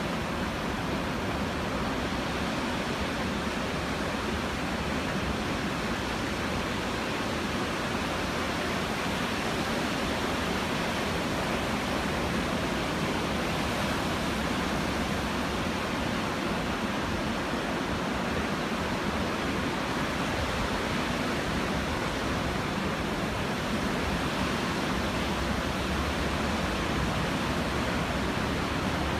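Ocean surf breaking on the shore, a steady, even rush of noise with no single wave crash standing out. The surf is raised by a passing typhoon.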